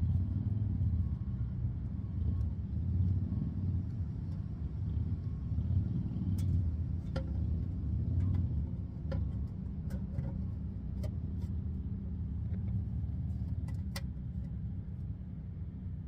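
1995 Ford Mustang's 3.8-litre V6 engine idling steadily, a low rumble, with a few light clicks scattered over it.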